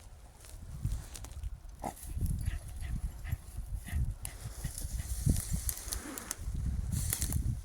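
Jagdterriers growling and grunting in low, choppy bursts, with a brief higher whine about two seconds in.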